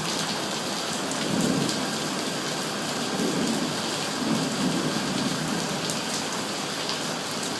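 Steady rain falling hard, with a low rumbling that swells a few times and a few sharp drip ticks near the end.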